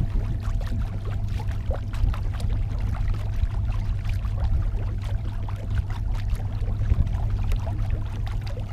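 Small electric trolling motor on a kayak running with a faint steady whine, over water lapping and splashing and a low wind rumble on the microphone.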